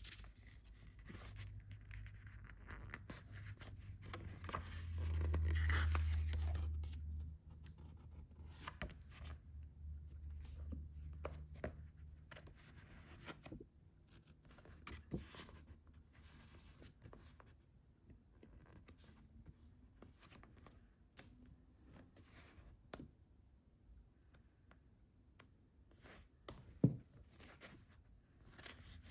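Hands handling manga paperbacks: paper and plastic wrapping rustling, scraping and crinkling. A louder low rumble of handling noise comes about five to seven seconds in, and a single sharp tap near the end.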